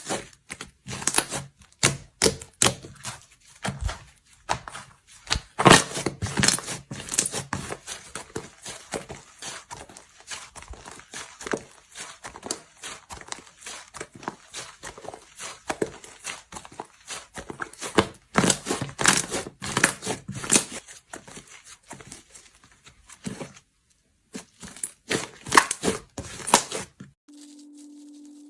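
Slime being squeezed, stretched and poked by hand, giving a dense, irregular run of crackling clicks and pops, with a couple of brief pauses. About a second before the end the crackling stops and a steady low tone begins.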